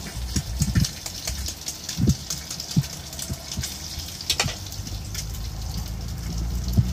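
Bacon and sausages sizzling and crackling on a griddle over a portable gas camping stove, with a few knocks as a knife taps an egg to crack it.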